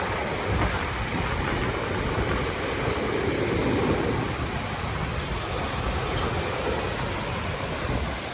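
Stormy sea surf washing onto a beach under strong wind, with the wind buffeting the microphone: a loud, steady rushing noise with a heavy low rumble, swelling a little midway.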